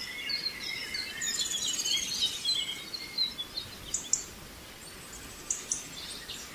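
Birds chirping and twittering over faint outdoor background noise: a busy run of short high chirps in the first few seconds, then only a few scattered sharp chirps.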